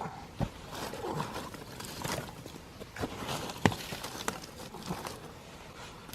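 A stick poking and stirring the embers of a dying campfire, giving irregular knocks and crackles, with one sharp crack about two thirds of the way through.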